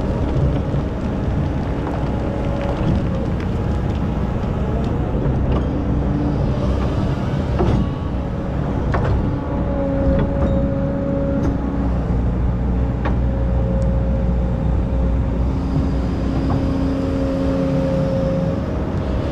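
Excavator's diesel engine running steadily under load, with a higher whine that comes and goes as the machine works and a few sharp clanks.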